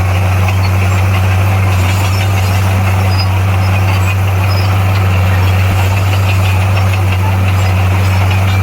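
Komatsu bulldozer's diesel engine running steadily with a constant low drone.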